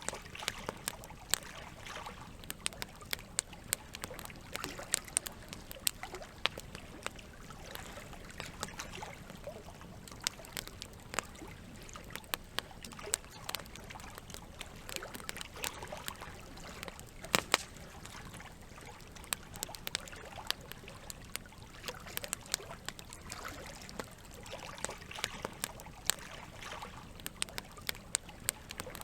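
Campfire crackling, with irregular sharp pops over a steady wash of water; one pop about two-thirds of the way through is louder than the rest.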